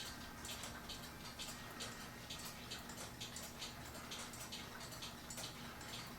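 A clock ticking steadily and faintly, a quick run of short, even ticks, over a low hum of room tone.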